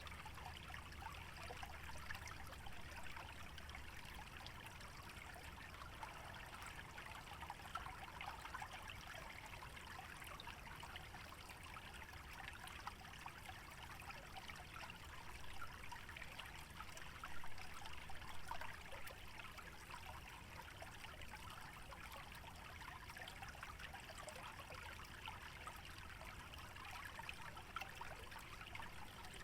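Shallow stream trickling steadily through wetland, a soft, even babble of water. It swells briefly a little over halfway through.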